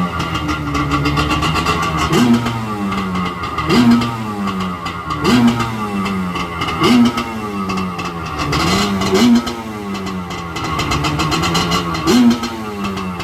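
Yamaha Wave Venture jet ski's two-stroke engine, freshly started and smoking, being blipped on the throttle: about seven quick revs, each rising sharply and falling back toward idle, one every second and a half or so.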